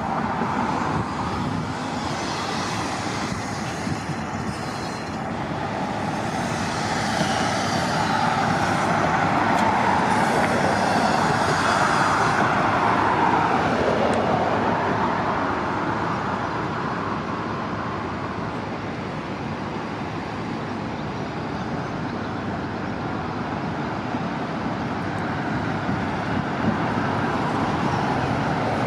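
City transit buses running and pulling past, a steady engine and road noise that swells to its loudest about ten seconds in, with a pitch that falls as it passes, then eases off again.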